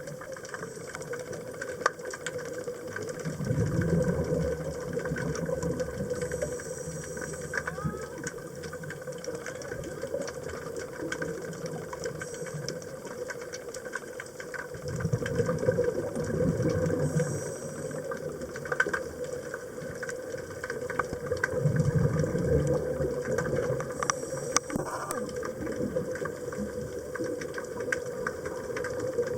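A scuba diver's regulator breathing, heard through an underwater camera: three bubbling exhalations, each followed a little later by a short hiss of inhalation, over a steady hum.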